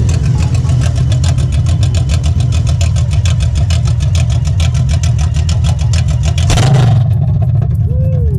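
Honda Valkyrie Rune's 1832 cc flat-six engine idling through a modified exhaust, with a brief louder surge about six and a half seconds in.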